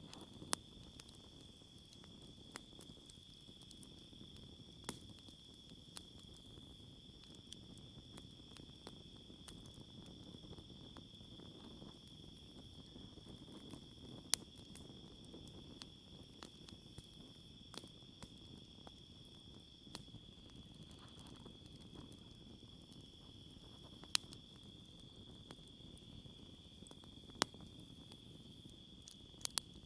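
Campfire crackling, with sharp pops at irregular intervals, over a steady high-pitched chorus of insects.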